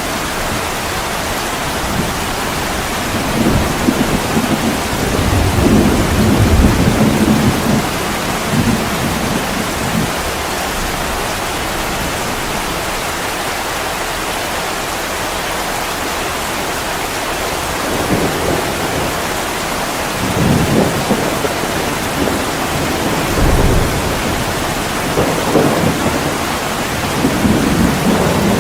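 Heavy rain pouring steadily, with low rolls of thunder rumbling several times over it, the longest and loudest about four to eight seconds in and more rolls in the second half.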